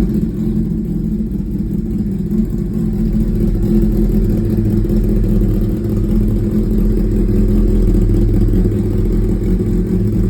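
Kawasaki ZX-10R's inline-four engine idling steadily, loud, just after being started.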